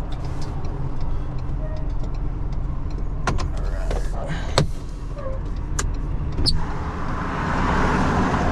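A vehicle engine idling with a steady low rumble, with a few sharp clicks and knocks in the middle. From about seven seconds in, the rush of passing freeway traffic grows louder.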